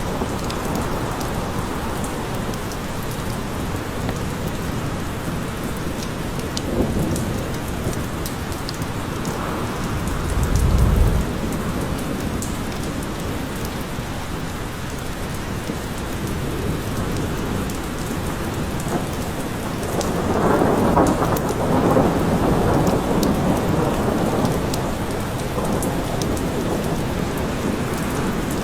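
Steady rain falling in a forest, with thunder: a short, deep rumble about ten seconds in and a longer swell of sound around twenty seconds in.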